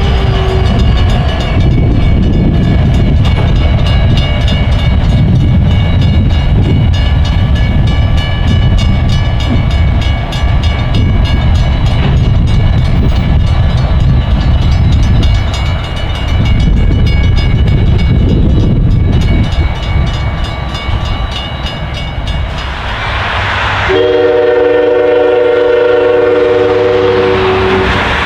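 A diesel freight train's locomotive and cars rumble past loudly, with steady high ringing tones over the noise. About 24 seconds in, the locomotive's horn sounds one blast of about three and a half seconds.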